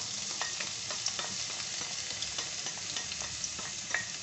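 Crushed ginger and garlic sizzling as they hit hot oil in a wok: a steady frying hiss with scattered pops and crackles.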